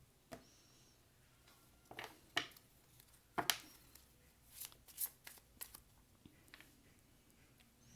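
Tarot cards being handled: an irregular series of sharp card snaps and slaps over several seconds, thickest around the middle.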